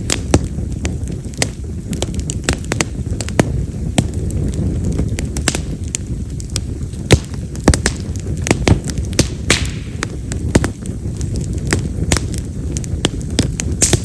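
Split yamazakura (wild mountain cherry) firewood burning in a campfire, with a low rumble of flame and frequent sharp, irregular crackles and pops, some loud like firecrackers. A brief hiss a little over halfway through.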